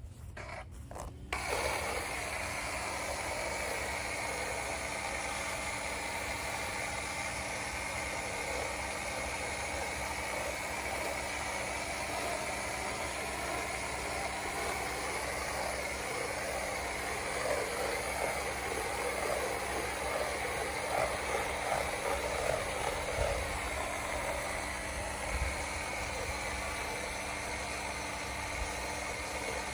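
Electric pressure washer running steadily, its motor and pump working while water and soap spray through a foam cannon. It starts up about a second in, after a few short clicks.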